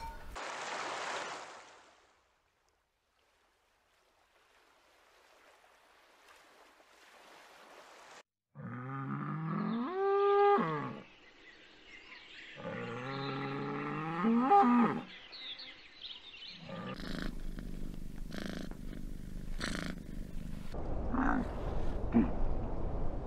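A cow mooing twice: two long calls a couple of seconds apart, each rising in pitch at its end. Afterwards a steady rushing noise with a few sharp knocks.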